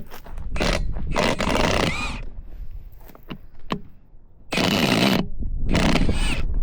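Impact wrench hammering on wheel bolts in three bursts: one of about a second and a half, then two short ones close together near the end.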